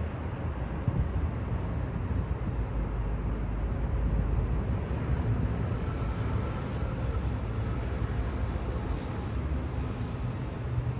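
Steady low rumble of city traffic, a continuous wash of road noise without distinct events.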